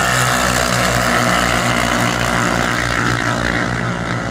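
A motor vehicle's engine running close by with a steady throb, its pitch dropping slightly a little past the middle.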